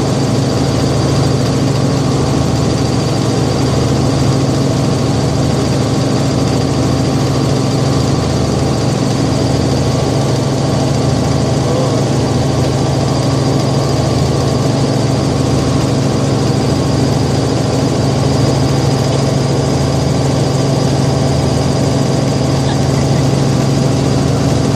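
Helicopter running, heard from inside the cabin: a steady, unchanging drone with a thin high whine above it.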